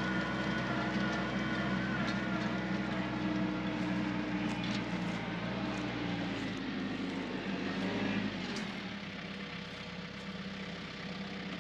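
TYM 4815 compact tractor's diesel engine running steadily, then throttled down about two-thirds of the way through as the tractor is brought to a stop.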